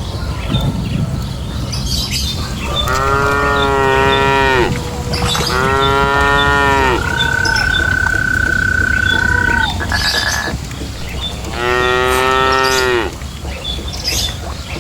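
Cattle mooing: three long moos, the first two close together and the third a few seconds later. Between the second and third there is a thin, steady high tone for about three seconds. A constant low noise runs underneath.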